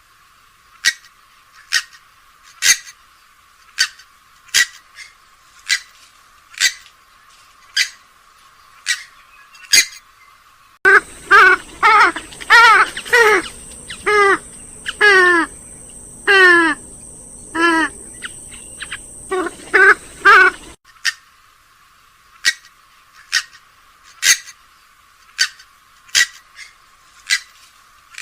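Swamphen and moorhen calls: short sharp call notes about once a second, broken about a third of the way in by a louder run of calls with falling, wavering notes, after which the short calls resume.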